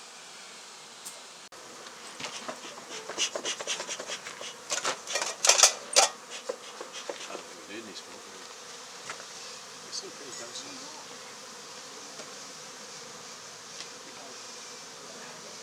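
Honey bee colony buzzing steadily. Between about two and six and a half seconds in, a busy run of scraping and knocking, loudest around five to six seconds in, as the hive's lid and comb are worked loose.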